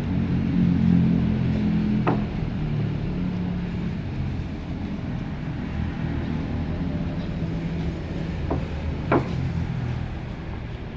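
Engine of a log-unloading vehicle running steadily, a little louder in the first couple of seconds, with three sharp knocks: one about two seconds in and two close together near the end.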